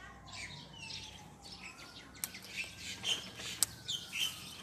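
Small birds chirping and twittering in quick, high calls, with a couple of sharp clicks about two and three and a half seconds in.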